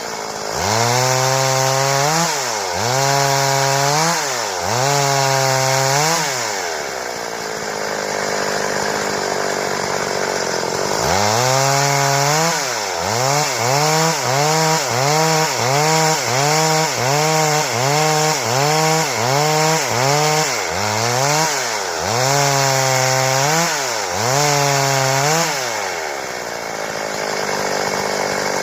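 Stihl chainsaw cutting boards, the engine's pitch repeatedly dropping and climbing again as it is worked in the cut. It holds a steadier pitch for a few seconds after a slow start, then dips quickly about twice a second, then more slowly before it settles near the end.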